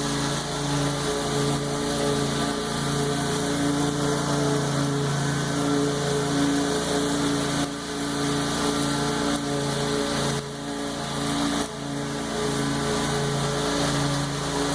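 Lawn mower engine running steadily while mowing tall grass, with a few brief dips in loudness.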